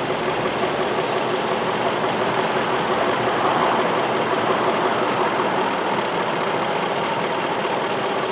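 Infiniti M45's 4.5-litre V8 idling steadily, with a P0300 random-misfire fault; no spark signal was found at the coils of cylinders 5 and 7.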